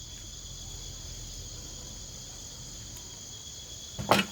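Steady chorus of insects, a continuous high trill at two pitches. A single sharp knock sounds near the end.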